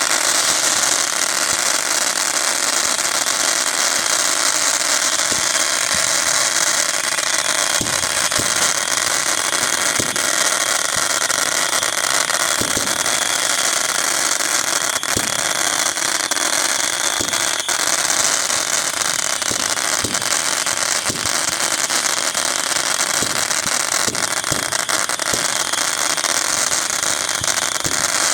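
Fireworks going off: a steady, dense crackling hiss with many short, irregular pops and bangs scattered through it.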